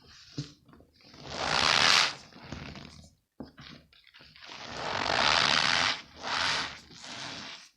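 Balls of packed cornstarch squeezed in the hands, giving a squeaky crunching. It comes in several squeezes that swell and fade, two of them long and loud: one about two seconds in and one around five seconds in.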